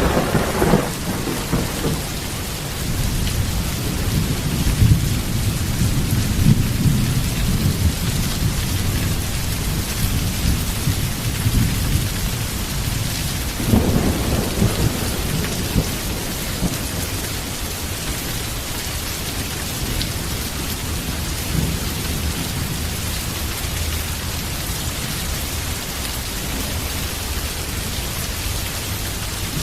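Heavy rain falling steadily, with thunder: a sharp crack right at the start that rolls into several seconds of low rumbling, and a second peal about halfway through that rumbles away.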